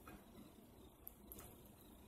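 Faint chewing and mouth sounds from eating a sub sandwich, with a few soft clicks and smacks, barely above near silence.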